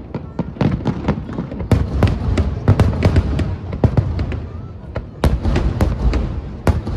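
Aerial fireworks shells bursting in a rapid, overlapping barrage, many sharp bangs a second over a deep rumble.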